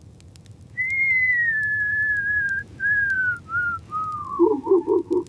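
A clean whistle that slides slowly down in pitch over about four seconds, breaking into several short phrases and ending in a lower, wavering note. Faint crackling clicks are heard throughout.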